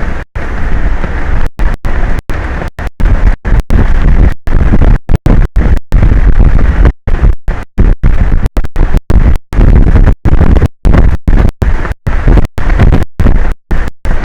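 Strong wind blasting the microphone of an exposed offshore camera: a loud, low, distorted rumble cut by frequent brief dropouts to silence.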